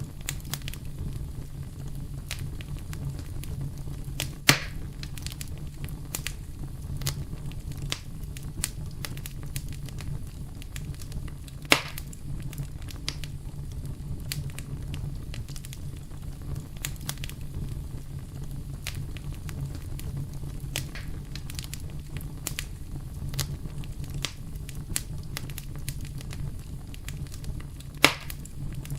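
Campfire burning with a steady low rumble and constant small crackles. Three louder pops of burning wood come at about four seconds, twelve seconds and near the end.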